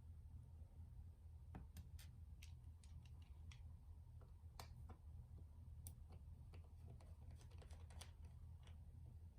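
Faint, irregular small clicks and taps of hand work on a Nintendo Switch during a fan replacement, over a steady low hum.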